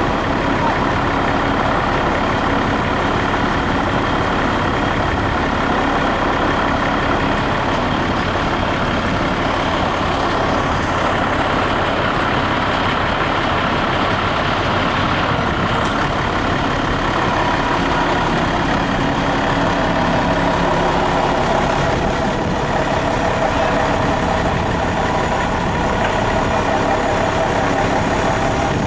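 Heavy vehicle engine running steadily, with an even, unbroken drone.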